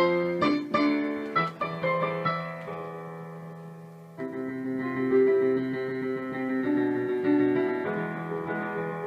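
Piano music: a quick run of struck notes that fades away, then a new passage of held chords starting about four seconds in.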